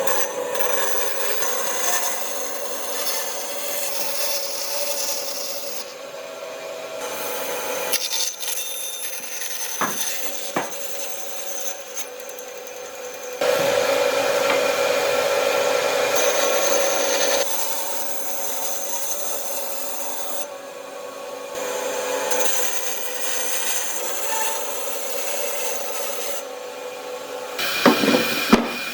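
Tools working wood, rasping and rubbing with a steady drone underneath. The sound changes suddenly several times, as from one short shot to the next, and ends with a few sharp knocks.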